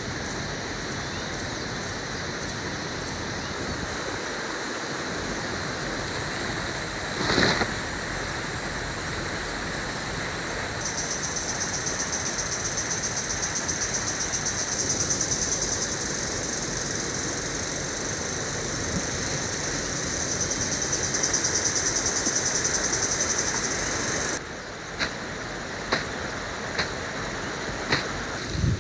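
Jungle ambience: a steady rushing noise like flowing water, joined after about ten seconds by a high, pulsing insect drone that cuts off abruptly. A few sharp knocks follow near the end.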